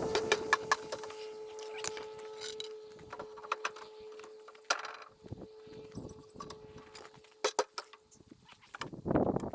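Sharp wooden knocks and clacks from handling a large oak log on a sawmill bed, over a steady whine that slowly fades out. A rougher, noisier scuffle comes about nine seconds in.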